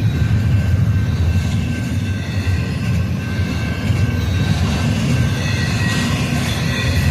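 Freight train rolling past: a steady low rumble of wheels on rail, with faint thin high-pitched wheel squeal above it.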